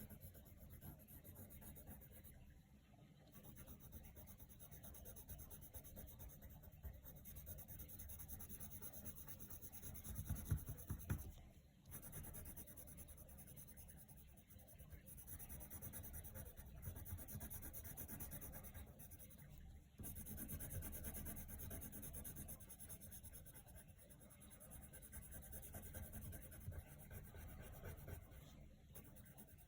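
Faint coloured pencil scratching on paper in quick back-and-forth shading strokes, with short pauses about twelve and twenty seconds in.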